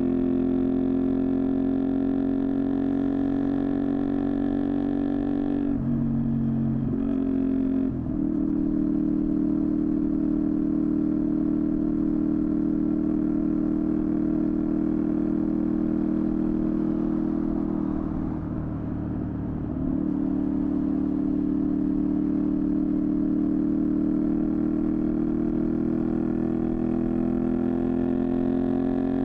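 Honda VTR250's V-twin engine running through a Moriwaki aftermarket exhaust while riding: a steady drone that breaks for a gear change about six to eight seconds in, eases off briefly around eighteen seconds, and climbs in pitch near the end.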